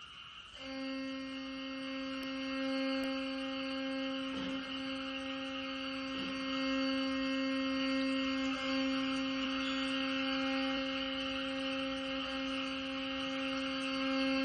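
One long sustained note, steady in pitch and rich in overtones, held by a Korean traditional chamber ensemble; it enters about half a second in.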